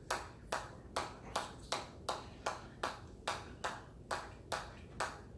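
A hammer striking in a steady run of sharp, ringing taps, about three a second, each one a counted repetition.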